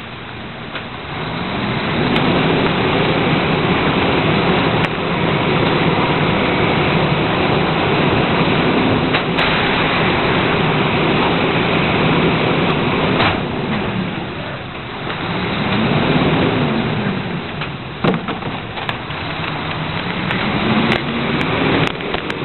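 Heil 5000 rear-loader recycling truck running loudly, its engine rising and falling in pitch several times under a heavy hiss.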